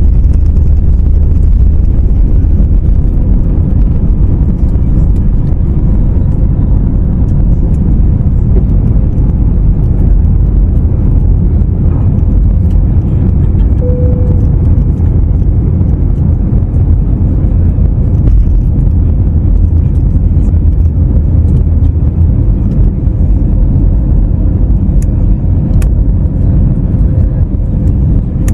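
Airbus A321neo cabin noise at a window seat under takeoff power: a loud, steady low rumble of the Pratt & Whitney PW1100G geared turbofans and airflow, with a faint steady hum and a brief faint tone about halfway through.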